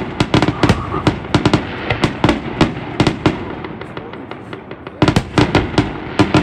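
Aerial fireworks shells bursting in rapid succession, several bangs a second. The bangs thin out briefly a little past the middle, then come thick again near the end.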